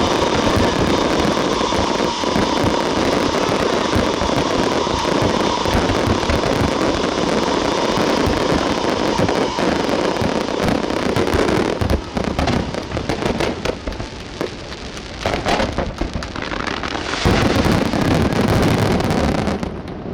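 Aerial fireworks display: a dense, rapid stream of pops and bangs from shells bursting. It thins out about twelve seconds in to scattered bursts, then swells into a loud final flurry that drops away near the end.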